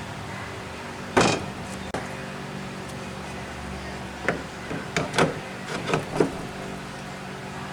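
Workshop handling noises over a steady background hum: a loud clunk about a second in, a click, then a run of short knocks and scrapes from about four seconds on.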